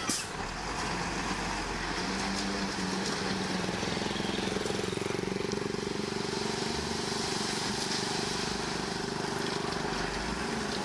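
Heavy diesel engine of earthmoving machinery running steadily under a constant load.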